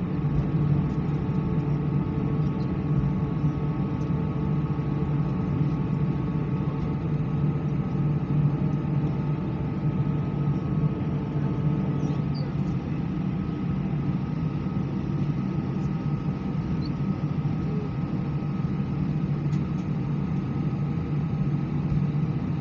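Airbus A319 cabin noise with the jet engines at idle: a steady hum with several steady tones running through it.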